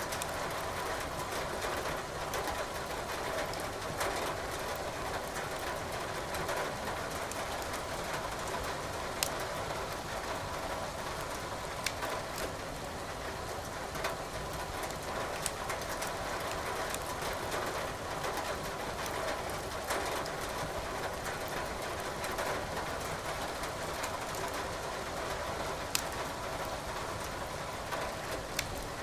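Wood fire crackling in a fireplace, with sharp pops every few seconds, over a steady hiss of rain.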